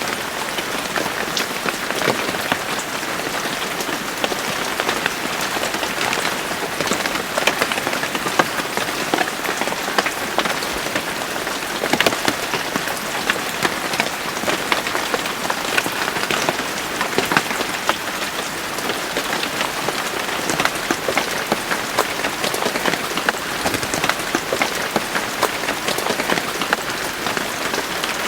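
Steady rain falling on a hard surface: an even hiss with many close, sharp drop impacts.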